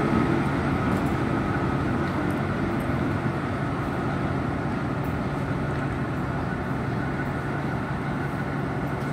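A diesel railcar train pulling away along the track, its engine and wheel noise fading gradually, with a steady low diesel engine hum underneath.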